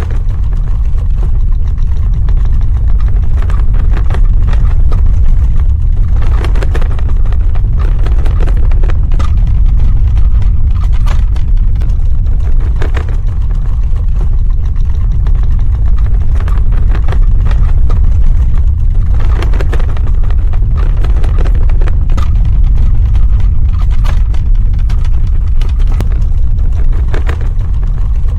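Earthquake rumble sound effect: a loud, continuous deep rumble with scattered crackling and rattling that swells now and then.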